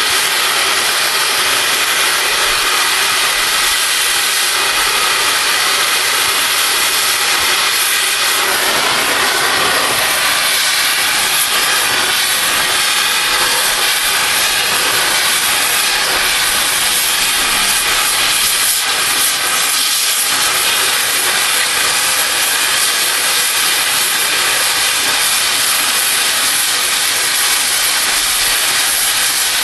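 Oxy-fuel cutting torch hissing steadily as it flame-cuts through steel railroad rail.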